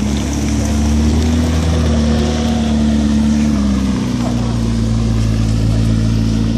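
McLaren MP4-12C Spider's twin-turbo V8 running at low speed as the car rolls past and pulls away, a steady low engine note that wavers slightly in pitch and shifts about four seconds in.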